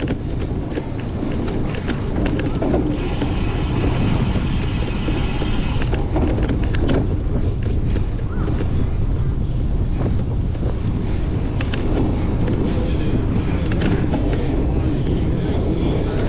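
Wind buffeting the microphone of a cyclocross bike being raced over rough ground, with the frame and drivetrain rattling and clicking throughout. A brighter hiss joins in from about three to six seconds in.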